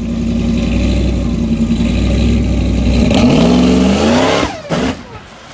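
Race truck engine at a drag strip holding a steady note, then revving up with its pitch rising about three seconds in. It cuts off sharply, followed by one short final burst.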